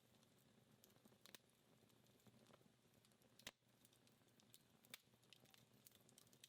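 Faint, irregular crackles and pops from a dying wood fire burning down to embers, with the sharpest pop about three and a half seconds in.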